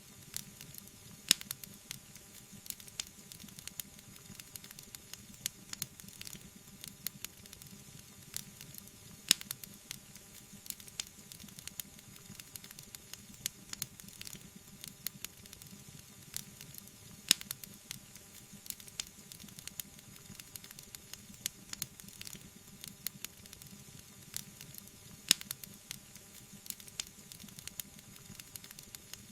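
Wood fire crackling in a fireplace: a soft steady hiss with dense small crackles, and a louder pop about every eight seconds.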